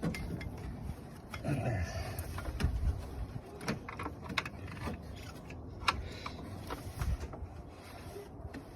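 Scattered clicks and light knocks of tools and plastic and metal parts being handled in a car's engine bay, over a low rumble.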